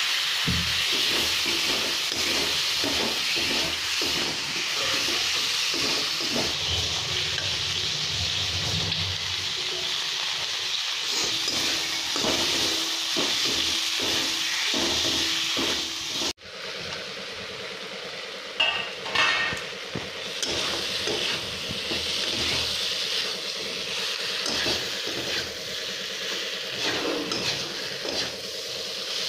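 Vegetables frying in hot oil in an iron kadai: a steady sizzle with a metal spatula scraping and knocking against the pan as it stirs. After a brief break about halfway through, the sizzling and stirring go on a little quieter, now with pointed gourd and drumstick pieces in the pan.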